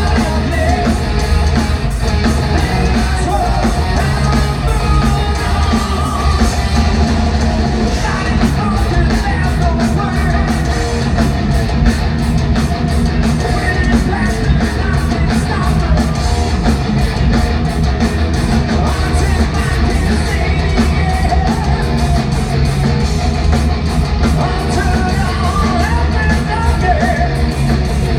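Thrash metal band playing live: distorted electric guitars, bass and fast drums, with sung and yelled vocals over them, loud and dense throughout.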